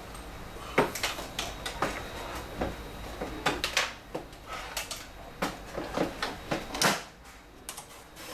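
Irregular sharp clicks and knocks, about a dozen, from hands handling the parts of an HP Scanjet 5590 flatbed scanner during repair. The loudest knocks come about a second in and near seven seconds.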